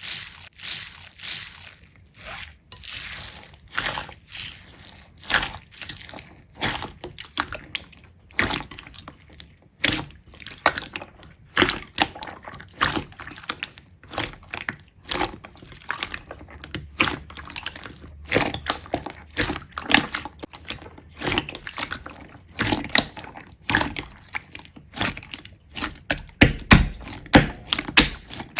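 Slime being squeezed and pressed by hand, making irregular wet clicks, pops and squelches, a few a second.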